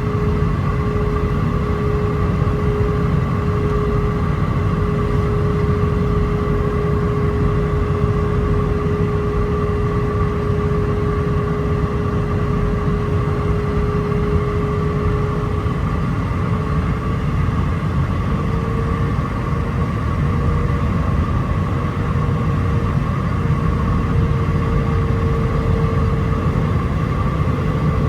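Airliner cabin noise inside an Airbus A319 on final approach: a steady rush of airflow with the whine of its IAE V2500 turbofan engines. About two-thirds of the way through, the engine whine rises slightly in pitch.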